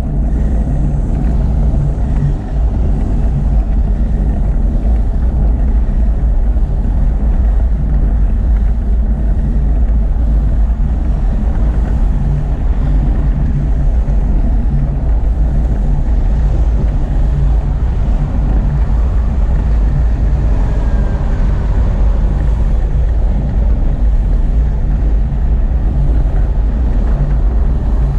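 Steady low rumble of wind and road noise while riding a bicycle, most of it deep and even with no distinct events.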